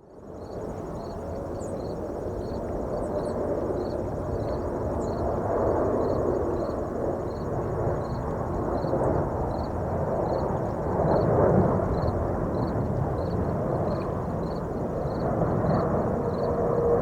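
Airbus A330-900 on approach: its Rolls-Royce Trent 7000 turbofans make a broad jet rumble that grows louder over the first few seconds as the airliner nears, then stays loud.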